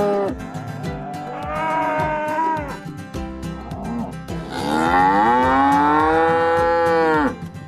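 Cows mooing: a call trailing off at the start, a shorter moo in the middle, and a long, loud moo in the second half that rises and then falls in pitch.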